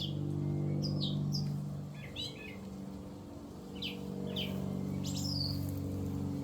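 A songbird singing short, quick chirps and sweeping notes in scattered phrases, over a steady low hum.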